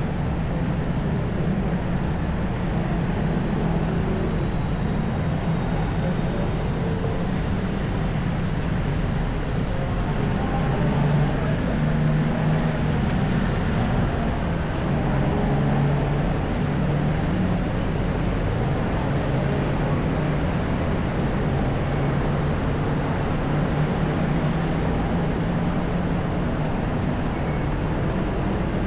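Steady city street traffic: the continuous hum of passing motor vehicles with road noise, its low engine drone shifting slightly as vehicles come and go.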